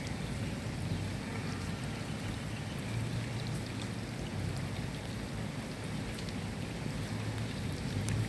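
Steady rain falling, with scattered drop ticks and a low rumble underneath that swells twice.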